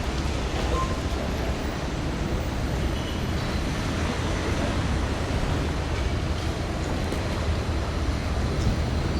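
Steady road and engine noise inside a moving car, a low rumble with even hiss over it.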